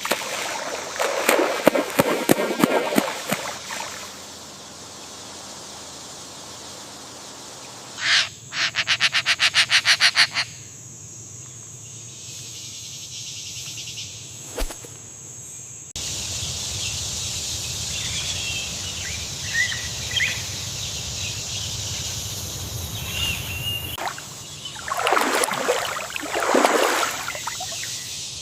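Wild wetland sounds with no single clear source: splashing water twice, a fast pulsing rattle of about five pulses a second, and a few bird chirps over a steady background hiss.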